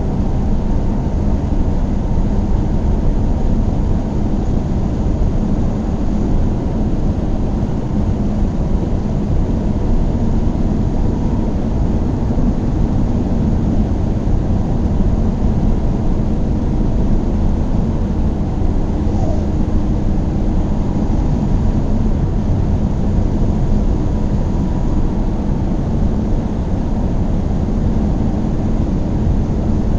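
Car driving steadily on the road: a constant low rumble of tyres and engine, with a faint steady hum.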